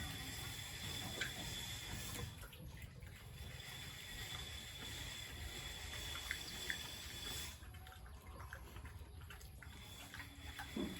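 Faint running or splashing water, with a few light clicks.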